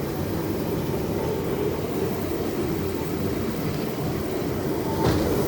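Rail bike's steel wheels rolling along railway track: a steady rumble, with a single knock near the end as a wheel crosses a rail joint.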